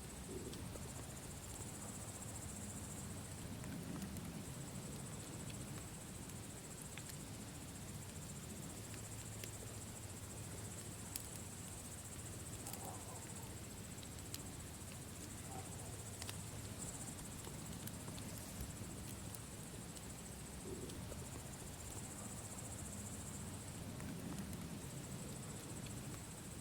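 Campfire crackling with scattered sharp pops over a low steady hiss, while crickets chirp in a high band that swells and fades every few seconds.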